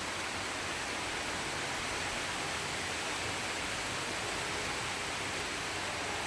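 Heavy rain falling during a thunderstorm, a steady hiss with no thunder.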